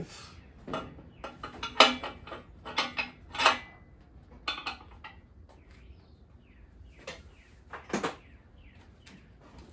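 Loose metal engine parts such as bolts clinking and clattering as they are handled and dropped: a string of sharp clinks with short ringing over the first few seconds, then a couple more near the end.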